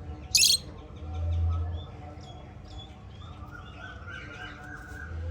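Small pet parrots, lovebirds and budgerigars, chirping in quick short calls, with one loud sharp shriek about half a second in. A low rumble comes in at about a second and again near the end.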